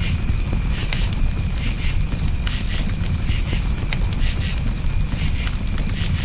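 Crickets chirping in repeated short pulsed chirps over a crackling campfire, with scattered sharp pops and a steady low rumble from the fire.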